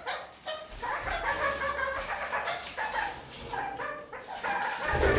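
Red-crowned kakariki (parakeets) chattering: a steady run of short, pitched calls.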